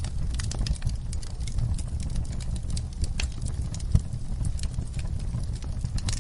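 Wood fire burning in a fireplace: a steady low rumble of flames with frequent sharp crackles and pops, one louder pop about four seconds in.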